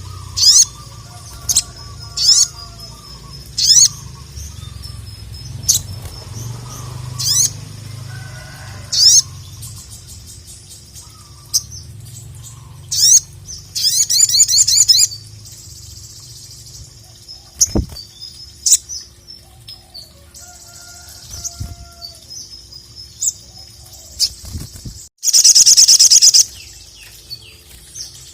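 A sogon sunbird singing: sharp high chirps repeated about every second and a half, then a rapid trilled phrase. Near the end comes a very loud, buzzy trill lasting about a second and a half.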